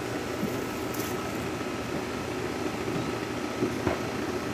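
Steady outdoor background hum with a few faint, sharp pops of firecrackers going off at a distance, the clearest one near the end.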